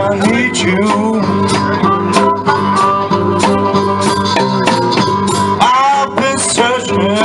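Live blues trio playing an instrumental passage: guitar with bending notes over a steady beat of percussive hits.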